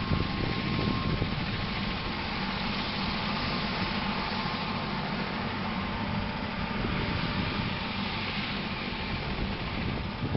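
Eurocopter AS350 B3 Écureuil helicopter's single turboshaft engine and rotor running steadily: a constant rotor noise with a faint steady turbine whine.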